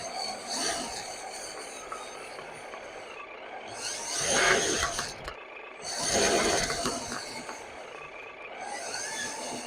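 Radio-controlled 8x4 scale model truck running: a steady high whine from its electric drive, with two loud rasping swells about four and six seconds in.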